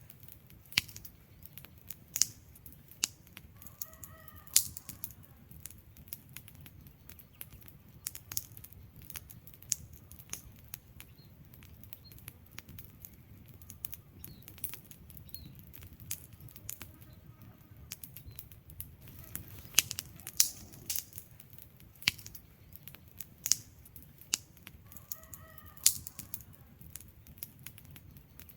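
Wood fire crackling in a fireplace: sharp, irregular pops and snaps over a low, steady rumble of flame, with a faint short whistle three times.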